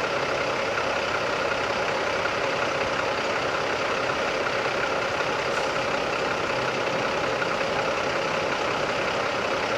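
Big-rig diesel engines idling nearby, a steady unchanging hum.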